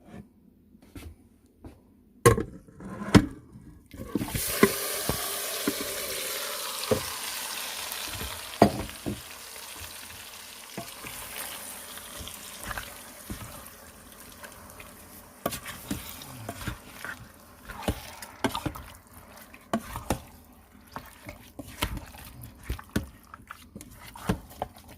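Marinated curry chicken hitting hot oil and curry in an electric multi-cooker pot on its sauté setting: a loud sizzle starts suddenly about four seconds in and slowly dies down as it is stirred. Spoon knocks and clinks against the pot come before it and keep on through the sizzle.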